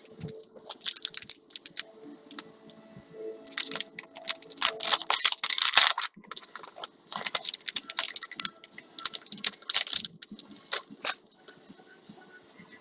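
Packaging being handled and unwrapped, crinkling and rustling in irregular bursts that are busiest in the middle and thin out near the end.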